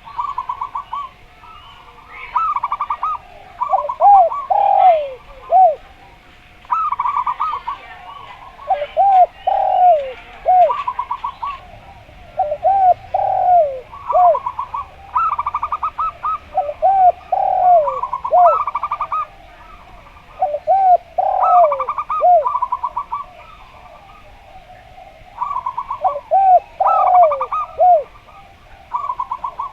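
Zebra dove (perkutut) and derkuku cooing together in repeated phrases every few seconds. Rapid staccato runs of higher notes overlap with lower, arching, swinging coos.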